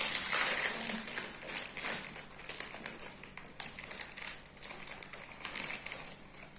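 Plastic snack bag crinkling and rustling as it is handled, loudest in the first couple of seconds, then lighter and more scattered.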